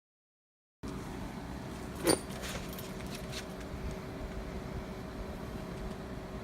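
A steady room hum with one sharp, ringing metallic clink about two seconds in, followed by a few faint clicks, like small metal parts or tools being handled.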